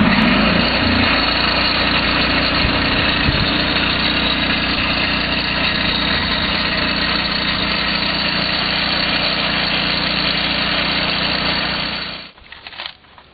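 Lucas portable sawmill's engine running steadily, driving the disc-sanding attachment on a 40-grit disc. The pitch settles after about a second, and the engine cuts off suddenly about twelve seconds in.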